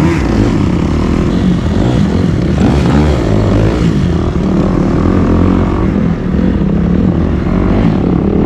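Dirt bike engine running while riding, held at fairly steady revs with small rises and falls in pitch.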